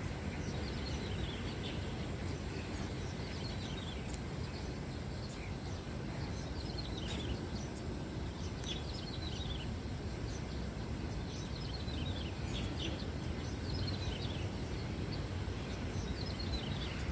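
Small songbirds chirping: short, quick falling notes, repeated irregularly. Under them runs a steady low rumble of outdoor background noise.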